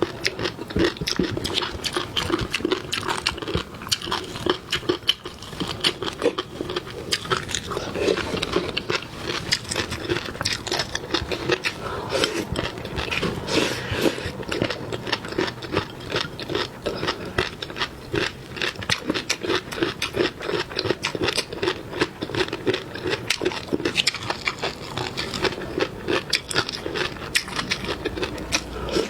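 Close-up eating sounds: steady, rapid chewing and crunching of seafood, with wet clicks and smacks packed close together.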